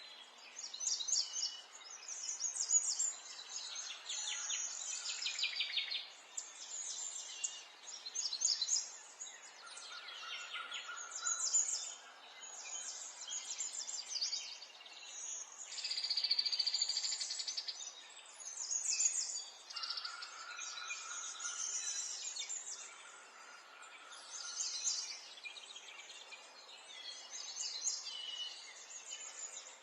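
Several songbirds chirping and singing in overlapping phrases of quick high notes and trills, with a few held whistled notes, over a faint outdoor background hiss.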